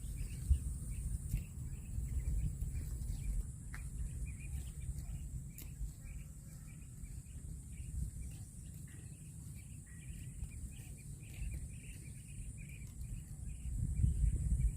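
Rural outdoor ambience: small birds chirping over and over, a steady high insect drone, and a low rumble underneath.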